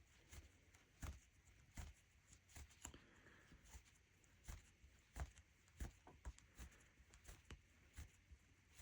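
Faint, irregular small clicks and scratches of a rug hook poking through the backing cloth and pulling wool strips up into loops, about one or two a second.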